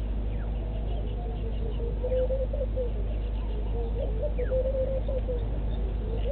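Birds calling from the bush in repeated warbling, chirping phrases, over a steady low hum.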